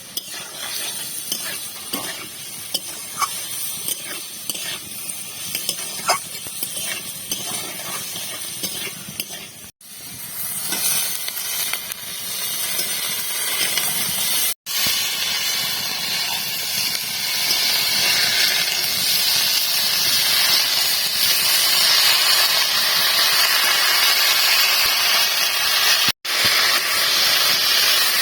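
Spices and garlic paste frying in hot mustard oil in a pan, sizzling, with a spoon stirring and clicking against the pan. In the second half the sizzle grows into a loud, steady hiss.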